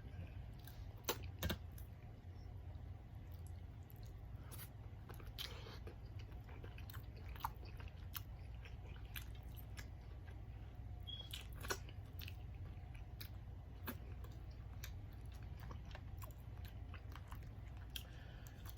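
Close-up chewing and biting of seafood-boil food, with sharp crunches now and then, the loudest about a second and a half in. A low steady hum lies underneath.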